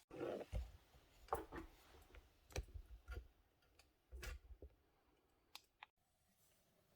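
A few faint, irregular clicks and knocks, typical of tools and metal parts being handled during car repair work.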